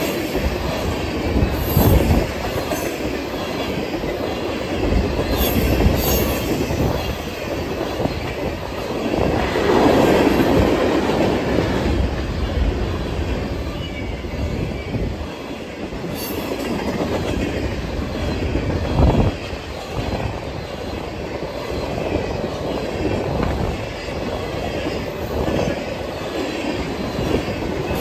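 Freight train of tank cars rolling past at close range: a continuous rumble of steel wheels on rail, broken by a few heavier clanks.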